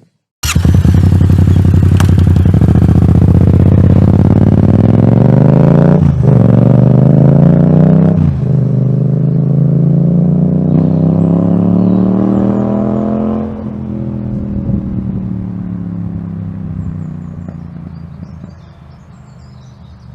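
Yamaha MT-07's 689 cc parallel-twin with an aftermarket exhaust accelerating hard, its pitch rising through three gears with short dips at two upshifts about six and eight seconds in. It then eases off and fades as the bike pulls away.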